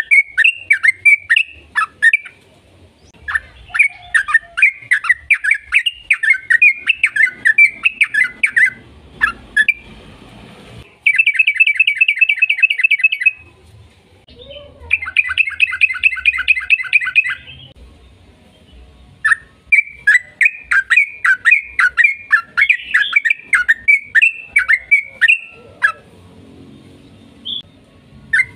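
Yellow-vented bulbul (trucukan) singing in long runs of rapid bubbly chirps. Two faster, even trills come about eleven and fifteen seconds in, with short pauses between the runs.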